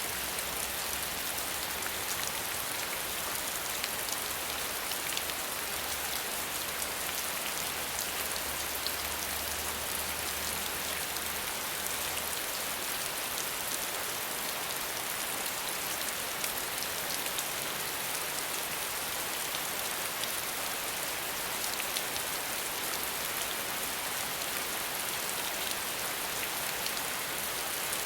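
Steady rain without thunder: an even hiss of falling rain with many separate drops ticking through it.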